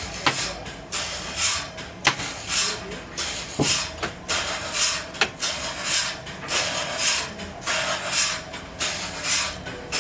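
Sawmill machinery running: a steady hum under a rushing noise that pulses about twice a second, with a few sharp clicks.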